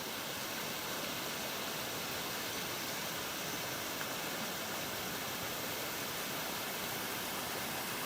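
Steady rush of creek water flowing at a small dam wall.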